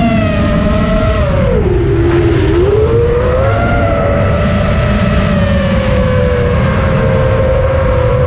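Electric motors of a battery-powered RC aircraft whining in flight. The pitch drops about a second and a half in, climbs back a second later, then holds steady. A heavy low rumble of wind buffets the microphone throughout.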